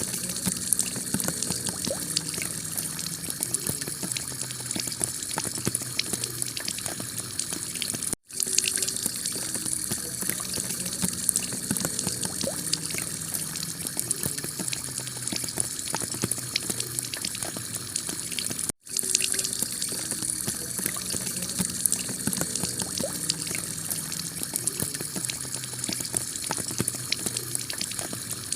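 Heavy rain pelting a clay-tiled roof: a dense steady hiss full of fine drop ticks. It cuts out for a split second twice, about 8 and 19 seconds in.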